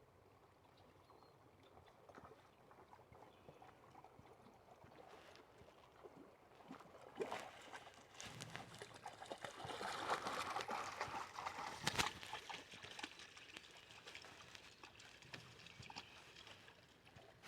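Dog wading and splashing in a shallow river, faint at first, then louder splashing and sloshing for several seconds in the middle with a couple of sharp knocks, before fading again.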